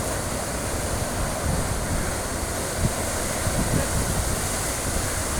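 Sea waves washing against a rocky shore, with wind buffeting the microphone in uneven low gusts.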